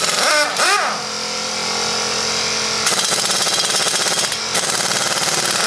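Impact wrench hammering steadily on the front wheel's lug nuts during a brake and rotor job.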